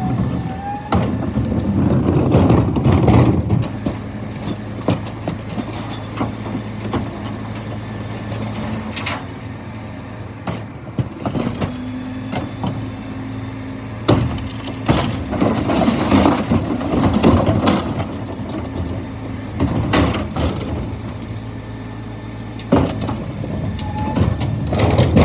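Scania P320 refuse truck running with a steady engine hum, broken by repeated clanks and knocks. There are louder spells of mechanical noise a few seconds in, around the middle and near the end.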